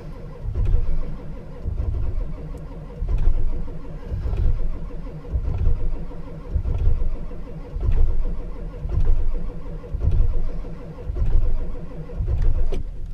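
Ford 7.3-litre V8 diesel cranking on the starter in a cold start that is not catching, the sound swelling and falling about once a second. The batteries are too weak to spin it fast enough, and only some cylinders fire.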